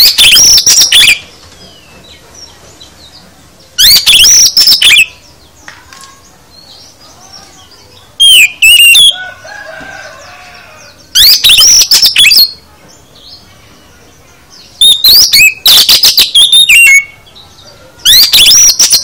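Oriental magpie-robin singing in loud bursts of rich, varied phrases, whistles and rattles, each about a second or two long, six times at gaps of a few seconds, with faint bird calls between the bursts.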